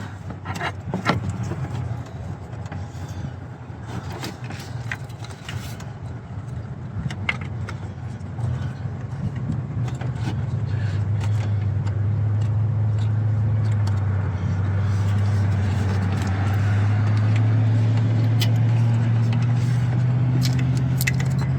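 Light metallic clicks and clinks of parts and connectors being handled in an engine bay. About nine seconds in, a steady low motor hum builds up, getting louder and rising slightly in pitch.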